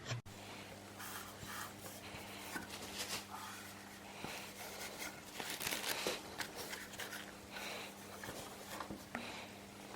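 Faint, irregular rubbing and scraping strokes of hand work on the car body, over a steady low electrical hum.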